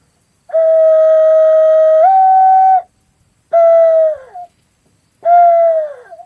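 Hand-blown dove call sounding a dove's coo: one long held note that steps up slightly near its end, then two shorter coos that each fall away in pitch.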